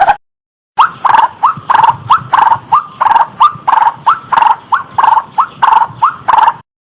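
White-breasted waterhen (ruak-ruak) calling, a fast series of harsh, repeated short notes, each rising in pitch, about three a second. The calls start just under a second in and cut off suddenly near the end.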